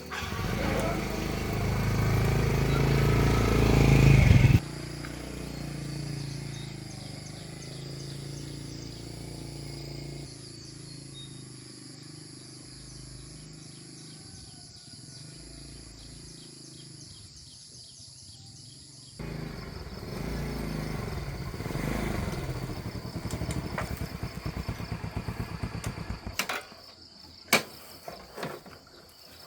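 A run of short outdoor clips cut one after another. First a motor vehicle runs loudly for a few seconds, building up before it cuts off. Then come quieter stretches of insects buzzing and chirping, with a few sharp knocks near the end.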